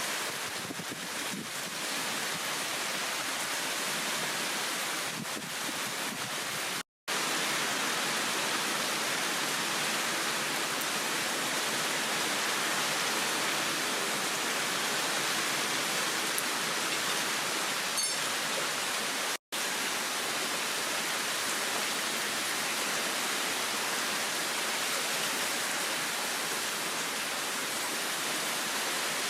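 Heavy downpour of rain, a steady dense hiss, cut off to silence for a moment twice, about 7 and 19 seconds in.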